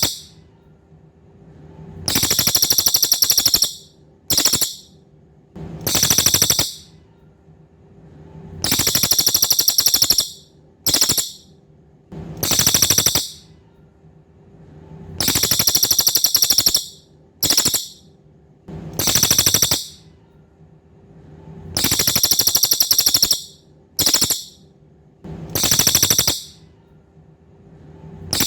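Cililin songbird repeating a loud, fast buzzing trill. Longer phrases of about a second alternate with short quarter-second bursts, one every one to three seconds. A faint steady hum runs underneath.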